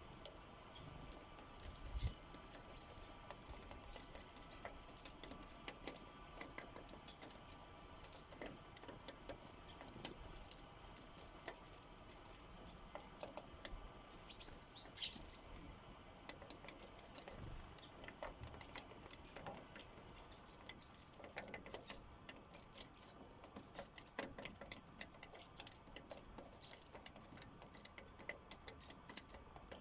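Sparrows pecking at seed on a bird feeder: a dense run of small irregular taps and clicks, with a few short high chirps, the loudest near the middle. A low thump about two seconds in.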